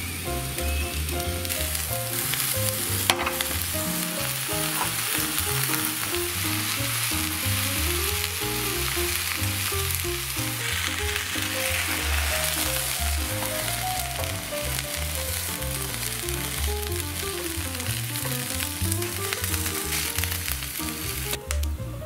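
King oyster mushrooms sizzling steadily in oil in a frying pan over low heat, under a foil cover. Background music plays throughout, and there is a single sharp knock about three seconds in.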